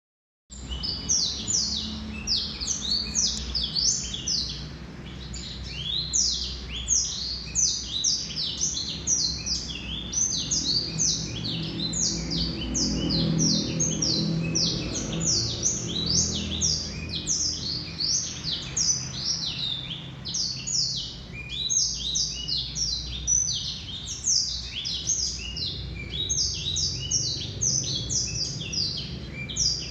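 Male blackthroat (black-throated canary) singing a long, unbroken, rapid song of short high sweeping notes, several a second.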